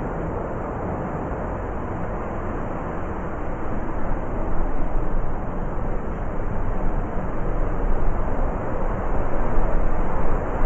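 Blizzard wind blowing hard, a deep, rushing howl that swells in uneven gusts from about a third of the way in.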